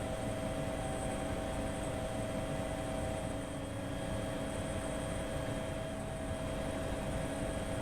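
Steady machine-like hum with several faint constant tones, even in level throughout.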